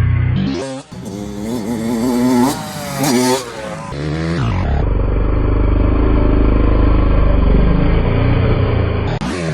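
Dirt bike engine revving up and down several times over a few seconds, with rock background music before and after.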